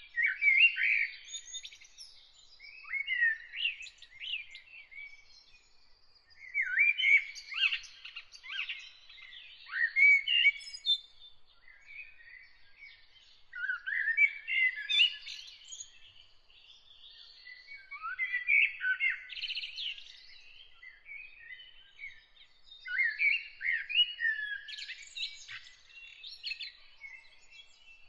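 A songbird singing in short phrases of quick, gliding warbled notes, a new phrase every few seconds with brief pauses between, over a faint thin high steady tone.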